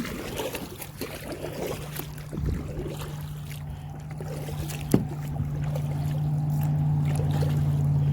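Water trickling and splashing lightly around a kayak, with a few knocks, one sharp one about five seconds in. A steady low hum comes in about a second and a half in and slowly grows louder.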